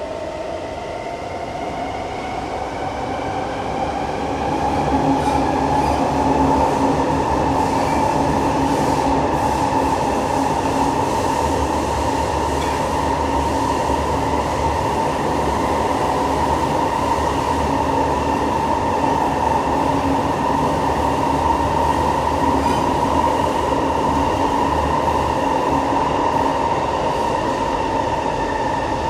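Siemens C651 metro train under way in a tunnel: its GTO-inverter traction motor whine climbs in pitch for the first few seconds as the train picks up speed, then holds steady over a continuous wheel-and-rail rumble.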